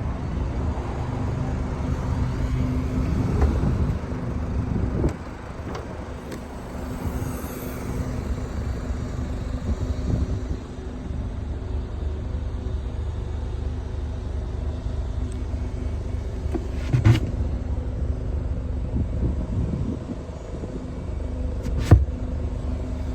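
2018 Mazda CX-5's engine running with a steady low rumble, a little quieter from about five seconds in. Two sharp knocks, one about seventeen seconds in and another about five seconds later.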